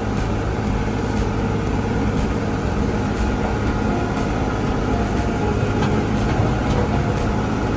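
Kubota L3560 tractor's diesel engine running steadily under way, a constant low hum with even overtones and a few faint clicks.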